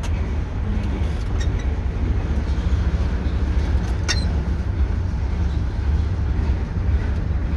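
TU6A narrow-gauge diesel locomotive's YaMZ-236 V6 diesel engine running after a cold winter start and warming up: a steady low rumble, with a short click about four seconds in.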